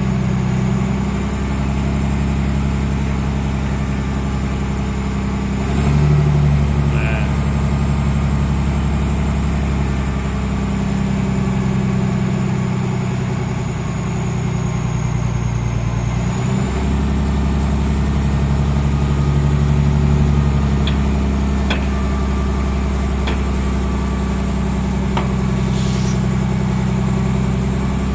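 Scania truck's diesel engine idling steadily, its note shifting slightly a couple of times, with a few faint clicks in the second half.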